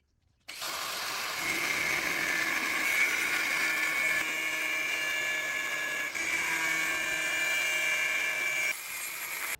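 A handheld power tool running steadily with a high-pitched whine. It starts abruptly about half a second in and dips slightly in level near the end.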